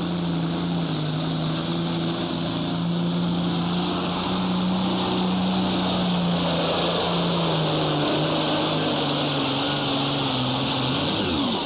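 Super stock pulling tractor, a turbocharged John Deere 6030 diesel, running flat out under load as it drags the sled, with a steady high-revving drone and a hiss on top. Near the end the engine pitch sags and drops off as the run finishes.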